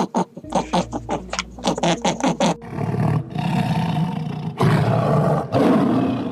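A quick run of short grunts, about four a second, then a lion roaring at length from about two and a half seconds in.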